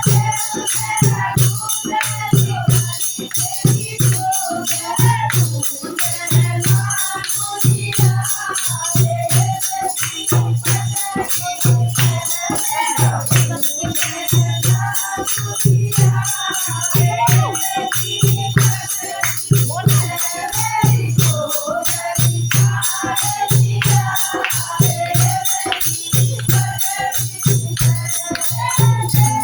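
Hindi devotional bhajan: a sung melody over a steady, driving drum beat, with jingling rattle-type percussion keeping time.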